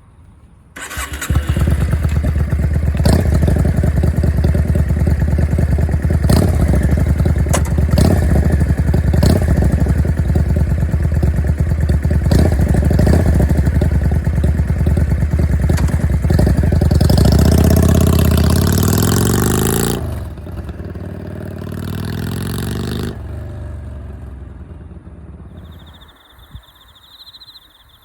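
Yamaha Drag Star 400's air-cooled V-twin started up about a second in, then idling loud and choppy through its exhaust with occasional throttle blips. It revs up higher for a few seconds past the middle, drops back, and fades out near the end.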